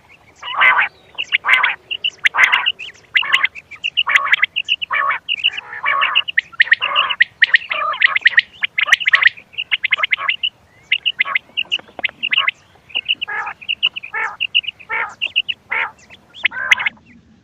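Recorded quail calls played as a hunting lure: harsh calls repeated about once or twice a second, mixed with short, quick, high-pitched chirps.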